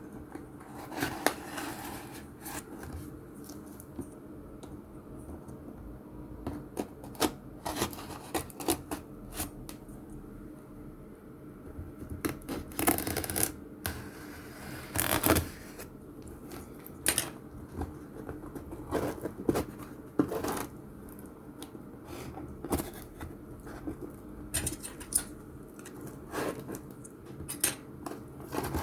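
A parcel being unpacked by hand: irregular rustles, scrapes and light clicks of cardboard and packaging being opened and handled.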